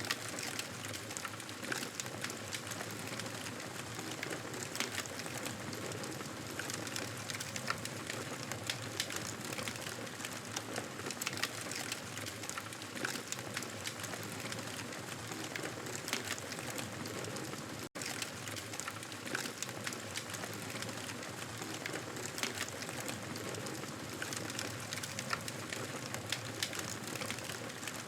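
Wood fire crackling: a steady hiss with frequent small pops and snaps, broken by a split-second dropout about eighteen seconds in.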